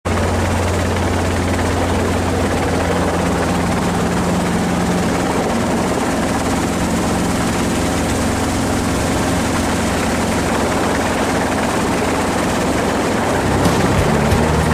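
Helicopter running steadily: a loud, even drone of rotor and engine with a low steady hum. Music comes in near the end.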